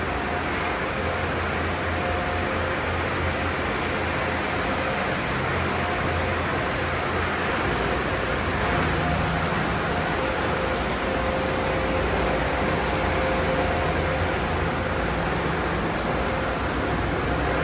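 Car wash tunnel's drying blowers running, a steady rush of air with a low hum underneath.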